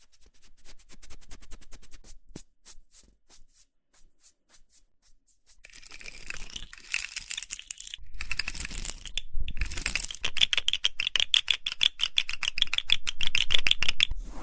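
Close-miked ASMR trigger sounds: a run of quick, light clicks or taps, then from about six seconds in a dense crackling, crinkling rustle that stops briefly twice and resumes.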